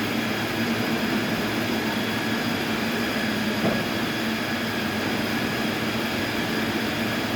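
Large sawmill machinery running with a steady mechanical drone and a constant whine.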